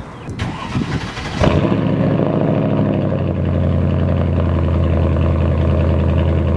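Mercedes-Benz CLK55 AMG's 5.4-litre V8 cranking on the starter and catching about a second and a half in. It flares briefly, then settles into a steady idle. The rough idle this car has was traced to a leaking intake manifold gasket and a faulty PCV valve.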